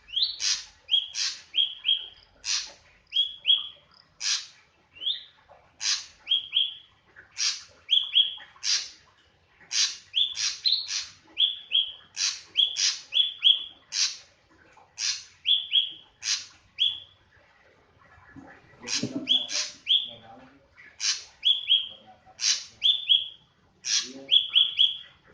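Drongo (srigunting) calling on and on: sharp, clipped notes, each usually followed by two or three short falling whistles, in quick groups with brief pauses.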